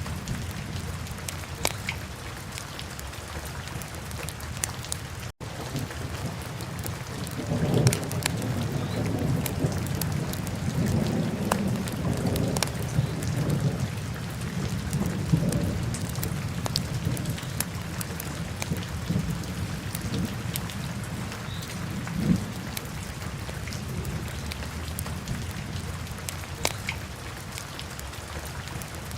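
Wood fire crackling, with scattered sharp pops over a steady hiss and a low rumble that swells for several seconds from about eight seconds in. The sound cuts out for an instant about five seconds in.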